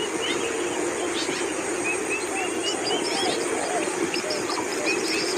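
Birds chirping in short repeated calls, with a faster run of high chirps near the end, over a steady low hum.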